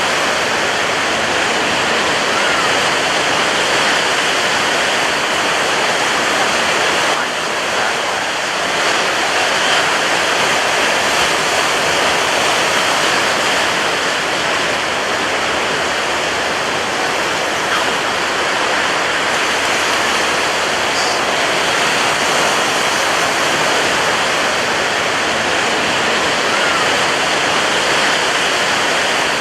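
Ocean waves breaking on a beach: a loud, continuous rush of surf with little rise and fall.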